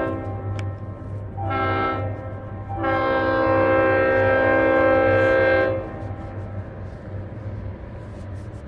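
Diesel locomotive air horn sounding a chord: one blast ending just after the start, a short blast, then a long loud blast, the close of a grade-crossing horn signal. Under and after it, the locomotive's diesel engine runs with a steady low hum.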